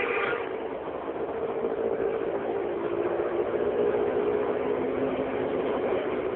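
A steady mechanical drone, like a motor or engine running, with a low hum over a noisy rush.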